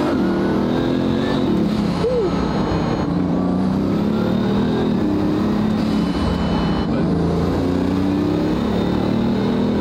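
Bugatti Veyron's quad-turbocharged W16 engine accelerating hard, heard from inside the cabin. The engine note climbs and drops back several times as it shifts up through the gears, and the turbo sounds are really loud from the air intakes just behind the seats.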